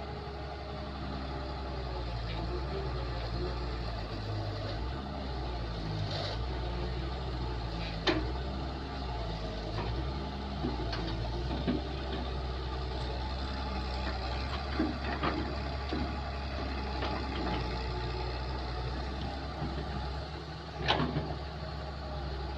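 Kobelco 07 excavator's diesel engine running steadily, its pitch shifting up and down as the hydraulics are worked. Sharp metal clanks come through it, the loudest about eight seconds in and near the end.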